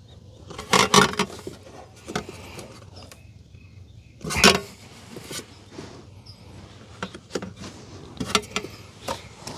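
A plastic wiring plug and its clip being worked loose by hand: irregular clicks, knocks and rattles, loudest about a second in and again at about four and a half seconds.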